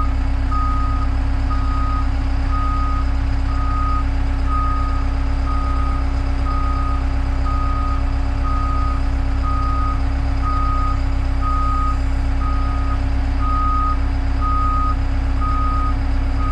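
Electronic back-up warning beeper sounding steadily about once a second, over a constant low hum of running machinery.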